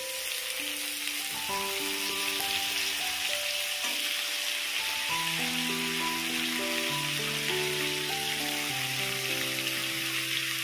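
Chopped Malabar spinach leaves and stems frying in hot oil in a kadhai: a steady sizzle that sets in as the greens hit the oil. Background music with held notes plays under it.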